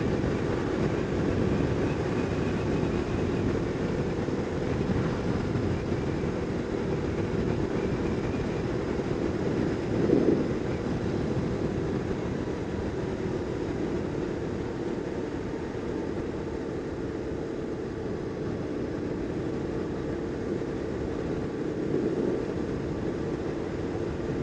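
BMW R850R's boxer-twin engine running as the motorcycle rides along at a steady pace, with road noise, and a brief louder surge about ten seconds in.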